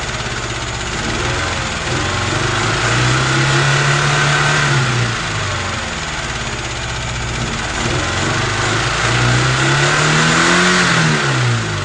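UZAM 2.0-litre engine with twin Solex carburettors and a '78' camshaft running untuned on its first start, revved up twice and falling back toward idle in between. It runs rough because its jets are mismatched and the mixture is off.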